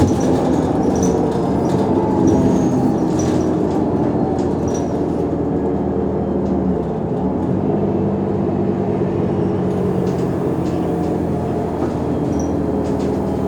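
Mercedes-Benz O345 Conecto G articulated bus's diesel engine running under way, with a steady droning note that dips and climbs back about seven seconds in. Short high squeaks and light rattles sound over it.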